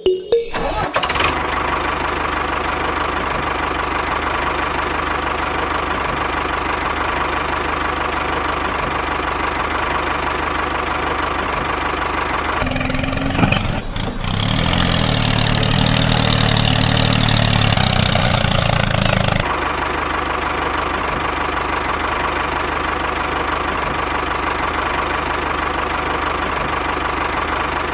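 The small motor of a homemade mini tractor running steadily. For about six seconds around the middle it goes louder and lower.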